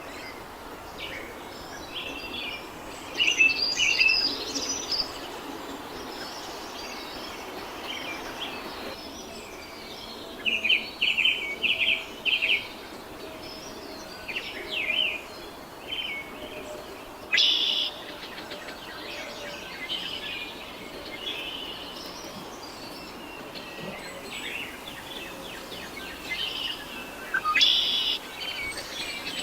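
Wild birds chirping and calling in quick high bursts, with clusters about three, eleven, seventeen and twenty-seven seconds in, over a steady outdoor hiss.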